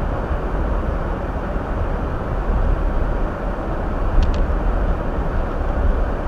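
Steady road and tyre noise of a Hyundai Elantra driving on slippery snow-covered roads, heard from inside the car, with a deep low rumble. Two light ticks come about four seconds in.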